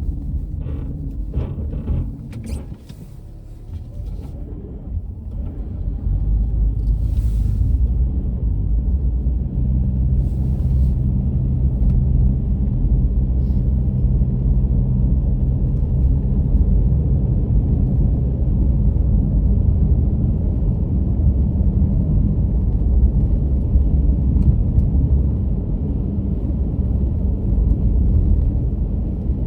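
Car driving on a road: a steady low rumble of tyres and engine with a steady drone. It drops quieter for a couple of seconds near the start, then builds back up.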